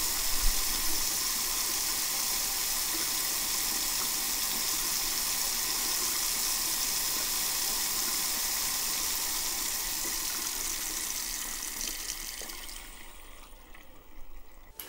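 Tap water running steadily into a plugged sink, then dying away over the last few seconds as the smart shut-off valve on the water supply closes.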